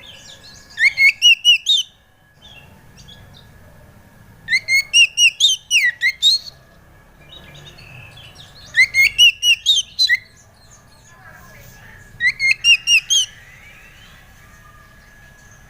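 Oriental magpie-robin (kacer) song: four loud bursts of quick, rising whistled notes, about every three to four seconds, with fainter chirps between them and a faint steady tone underneath.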